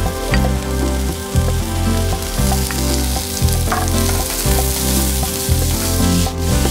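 Vegetables and soba noodles sizzling in a hot oiled wok, with a wooden spoon stirring and scraping through them.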